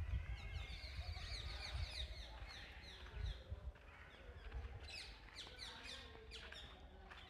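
Many small birds chirping at once, a dense run of short, quick falling chirps, over a low steady rumble.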